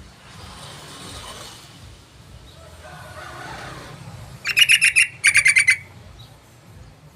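Yellow-vented bulbul (trucukan) call: two short bursts of rapid, chattering repeated notes, each about half a second long, beginning about four and a half seconds in.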